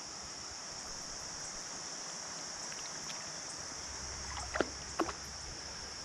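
Creek water running under a steady high-pitched insect chorus, with two short sharp sounds about half a second apart around four and a half seconds in.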